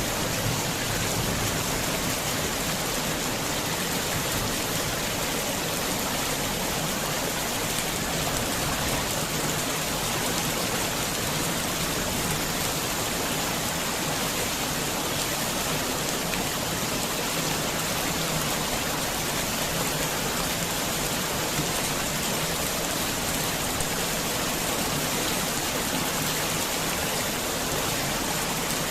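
Heavy rain falling steadily, an even hiss of water with no distinct drops standing out.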